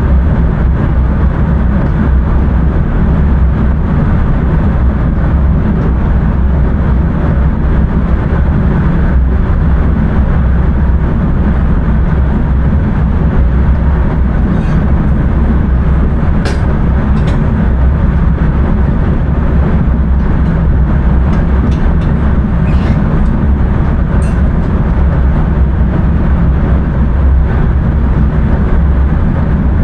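Passenger train running steadily at speed, heard from the driver's cab: a loud, even rumble of wheels on rails and traction noise, with a few faint ticks near the middle.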